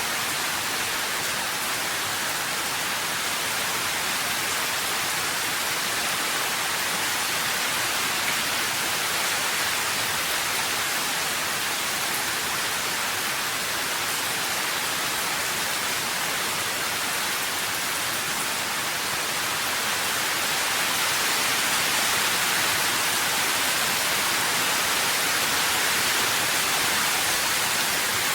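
Steady heavy rain, an even dense hiss of drops with no separate patter, growing a little louder about two-thirds of the way through.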